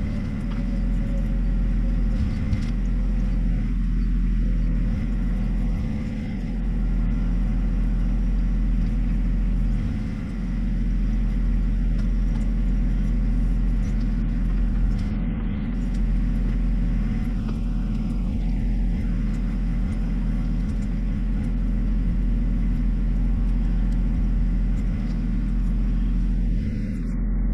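John Deere 1025R sub-compact tractor's three-cylinder diesel engine running steadily.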